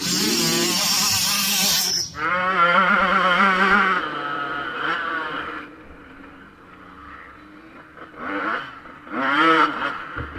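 Two-stroke motocross bike engine revving hard, with a brief break in the throttle about two seconds in, then its pitch wavering up and down as it pulls away and fades. Two shorter bursts of revving follow near the end.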